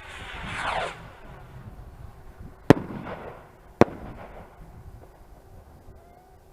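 Fireworks: a rushing whoosh falling in pitch, then two sharp bangs about a second apart, each with a short echoing tail.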